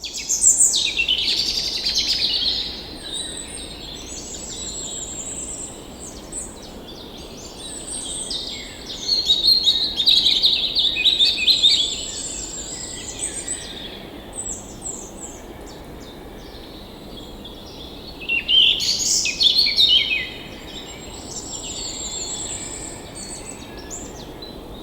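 Several birds singing and chirping, with quick trills and repeated high notes, busiest near the start, in the middle and again about three quarters of the way through, over a steady low rushing background.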